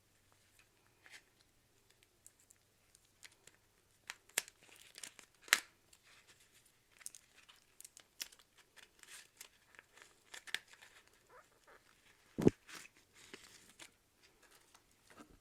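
Irregular crinkling and crackling of something being scrunched and handled, with a few sharper cracks and one low thump about twelve seconds in.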